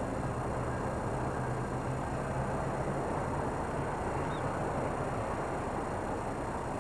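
Steady airport ramp noise with the low hum of an aircraft tow tractor's engine pulling the Boeing 767; the hum fades about five seconds in. A short high chirp a little past four seconds.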